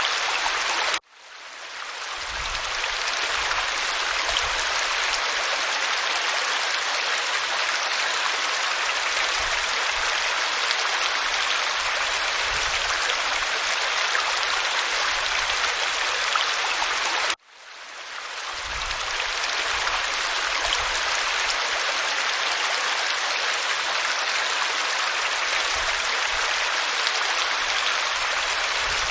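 Steady rushing of a waterfall pouring over rock. The sound cuts out abruptly twice, about a second in and again about seventeen seconds in, and each time swells back to full over a second or two.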